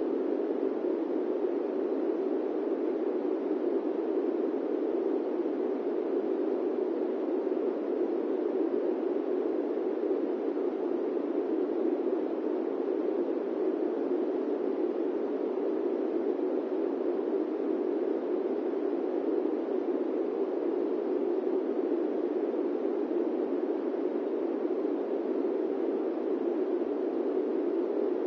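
Airplane-cabin white noise: an even, unbroken rushing hiss with no tones or changes, weighted toward a low, muffled drone.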